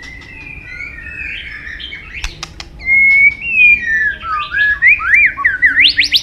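White-rumped shama singing: varied whistled phrases that slide up and down in pitch, with a few sharp clicks about two seconds in. The song grows louder from about halfway and ends with quick rising-and-falling notes.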